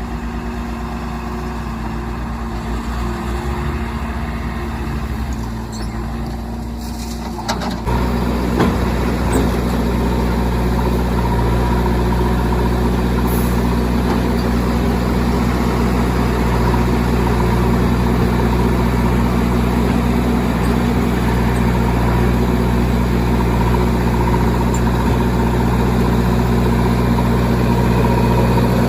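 Heavy diesel machinery engine running steadily; about eight seconds in it gets louder, with a deeper, fuller hum that then holds.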